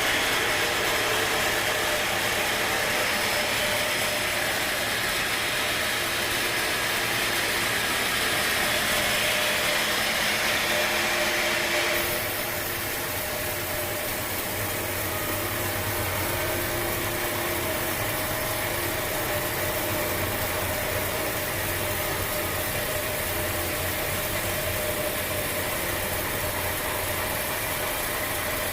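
Sawmill machinery running steadily with a mechanical clatter and engine hum. The sound changes abruptly about twelve seconds in, when a higher grinding band drops away and a steadier engine-like running is left.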